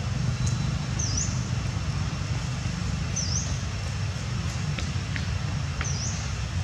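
A bird's short, high chirp, a quick dip and rise in pitch, repeated three times a few seconds apart over a steady low rumble.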